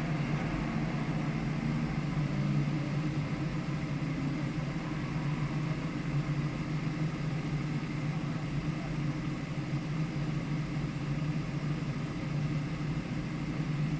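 Car engine running steadily at an even pitch.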